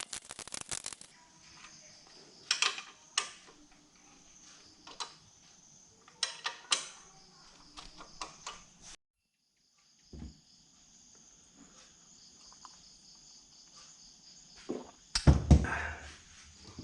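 Scattered clicks, clinks and knocks of tools and motorcycle parts being handled and fitted during assembly, with a brief dead gap about nine seconds in and a cluster of louder knocks near the end.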